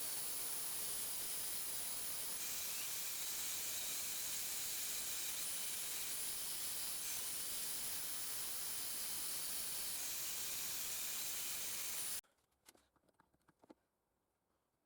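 Steady hiss, strongest in the high pitches, with faint thin whistling tones in it. It cuts off suddenly about twelve seconds in, leaving near silence with a few faint clicks.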